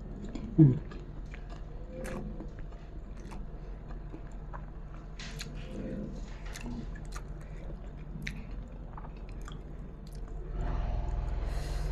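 Close-up eating sounds of a person chewing a mouthful of rice with jengkol stew and crunchy fried shallots: small wet mouth clicks and crunches. A brief falling hum about half a second in is the loudest sound.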